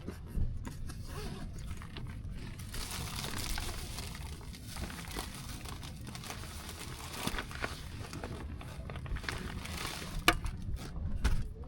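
Rustling and crinkling of material being handled, with scattered small clicks and one sharper click near the end, over a low steady rumble.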